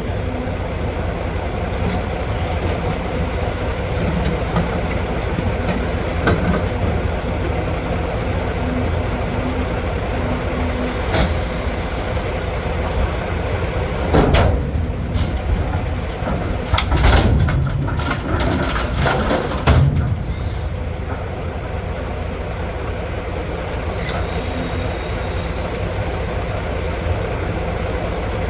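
Diesel engine of heavy earthmoving equipment running steadily. A series of loud clanks and scrapes comes between about 14 and 20 seconds in.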